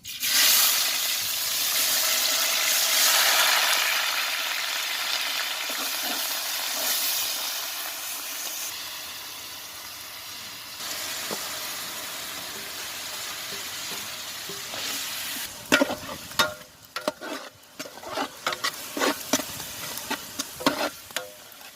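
Onion, ginger, garlic and green chillies dropped into hot oil, sizzling loudly at once, then settling to a quieter steady sizzle over the next several seconds. Near the end come short knocks and scrapes of stirring in the pot.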